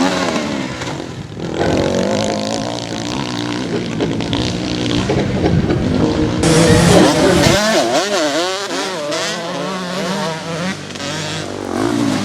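Motocross bikes racing, several engines at once, their pitch rising and falling over and over as the riders open and close the throttle. The sound grows fuller about halfway through.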